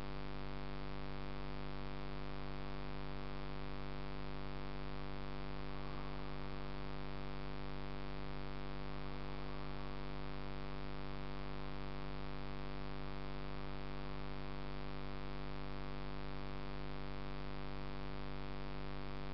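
Steady electrical hum with a buzz of many overtones and a little hiss, unchanging throughout.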